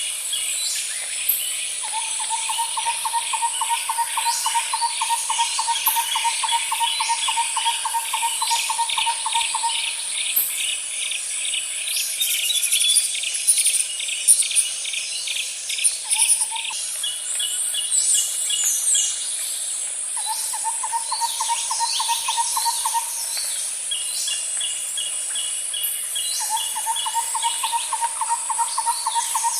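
Nature ambience: a steady high-pitched insect drone with chirping calls over it, and a lower trill of rapid even pulses that lasts several seconds and comes back three times.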